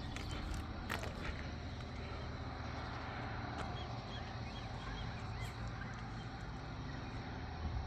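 A steady low engine hum, like a motor running at idle, with a few sharp knocks about a second in.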